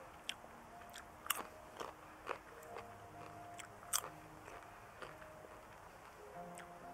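Popcorn being chewed up close: a string of irregular sharp crunches, a few to the second at first, then sparser. Soft background music with held notes runs underneath.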